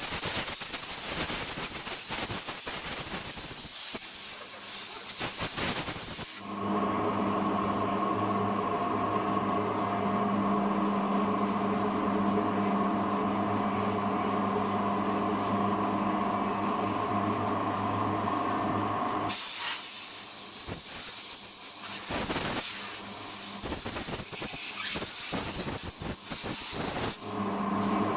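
Hissing spray or air jet from detailing equipment. About six seconds in it gives way to a steady machine hum, which runs for about thirteen seconds before the hissing returns; the hum comes back briefly near the end.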